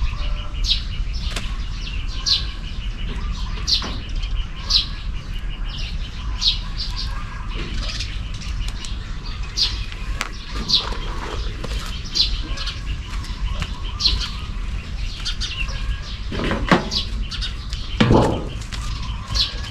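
A small bird chirping over and over, short high chirps about once a second, over a steady low rumble. Near the end come two louder, lower sounds.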